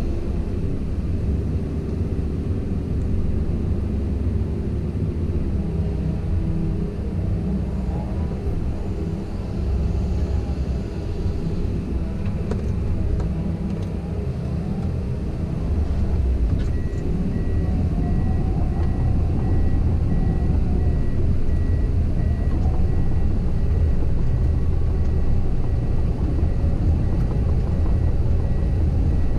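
Komatsu PC170LC-10 hydraulic excavator's diesel engine running under work, a steady low rumble that grows a little louder about halfway through.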